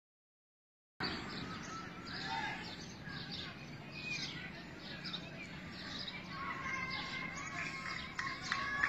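Birds chirping and calling in many short, quick notes, starting about a second in. About six seconds in, a steady high tone with a regular pulsing beat joins and grows louder.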